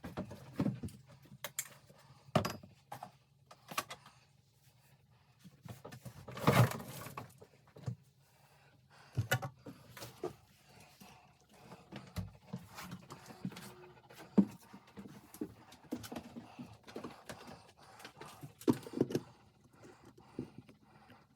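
Scattered knocks, clatters and handling noises of hands-on renovation work, irregular and without rhythm, the loudest about six and a half seconds in, over a faint steady low hum.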